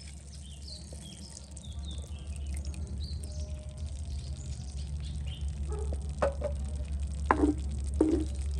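Small birds chirping over a steady low rumble, with a few short, sharp sounds in the last few seconds.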